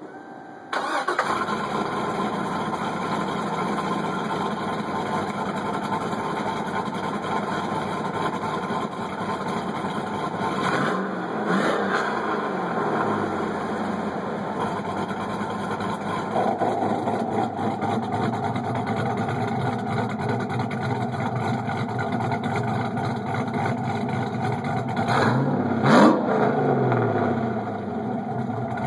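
Supercharged LSA V8 running through an exhaust with a Quietflow muffler and an electric cutout, starting up about a second in and settling into a steady idle. It is briefly revved twice, once near the middle and once near the end, the pitch rising and falling back each time.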